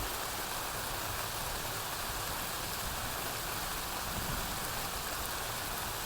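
Steady rain falling, an even hiss without distinct drops or pauses.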